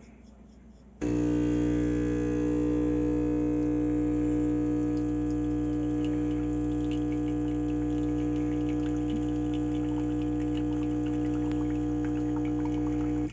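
De'Longhi Dedica Arte espresso machine's vibration pump buzzing steadily as it pulls a shot. It starts about a second in and cuts off at the end, with faint drips of espresso falling into the cup.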